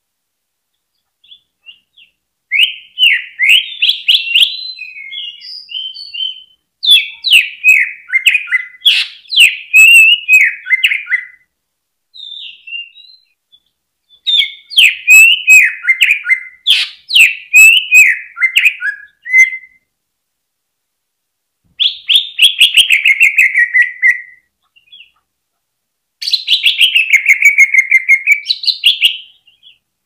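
Green leafbird (cucak ijo) singing in loud, fast chattering phrases of a few seconds each, with short pauses between them. Near the end it gives a rapid run of notes sliding down in pitch, then a phrase that dips and climbs back up.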